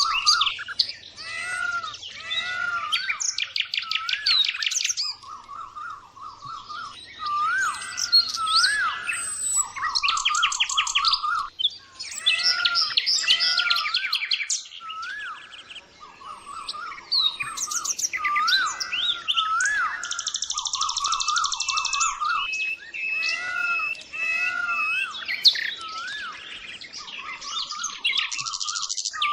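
Birds chirping and singing continuously: short whistled notes that rise and fall, over rapid high trills, in phrases broken by brief pauses.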